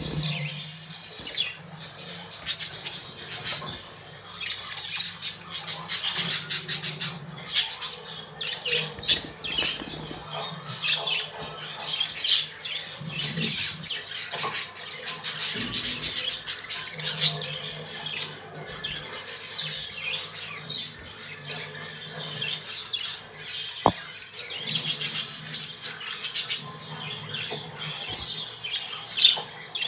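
Budgerigars chirping and warbling continuously, a busy, rapid chatter of many short high notes.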